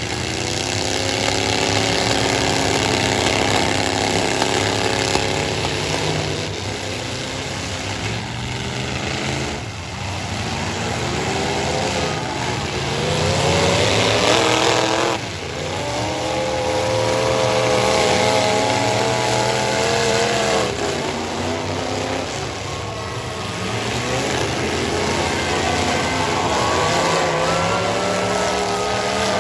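Engines of full-size stock pickup trucks in a demolition derby revving up and easing off over and over. One climbs steeply about halfway through, then drops away suddenly.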